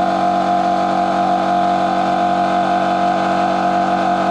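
A Quattro Elementi KM 24-260 2.5 hp air compressor running steadily under load, a loud, even motor-and-pump hum with a strong tone. It is pumping the tank back up from 6 to 8 bar after switching itself on again.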